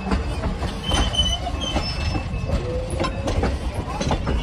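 Strasburg Rail Road passenger train rolling along the track: a steady low rumble with clicks of wheels over the rails and a few short, high wheel squeals about a second in.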